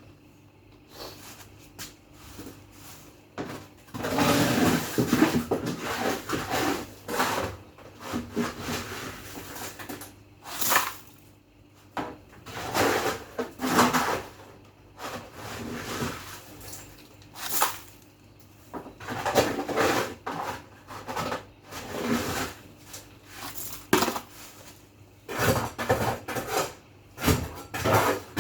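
Irregular clattering and knocking of household items, with rustling and scraping, as fridge drawers, shelves and containers are handled during a clean-out. The knocks come at uneven intervals, thickest about four to seven seconds in and again near the end.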